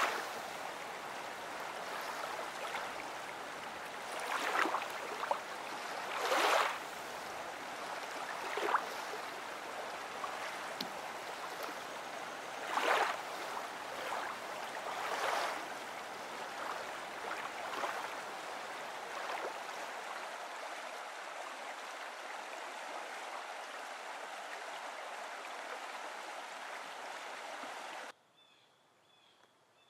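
Steady rush of water with louder splashing swooshes every couple of seconds. About two seconds before the end it cuts abruptly to a quiet background with a small bird chirping repeatedly.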